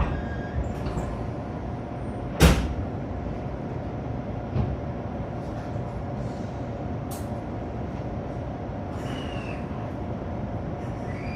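A train's steady hum, with a sharp clunk about two and a half seconds in and a softer knock a couple of seconds later. Short falling squeals come near the end.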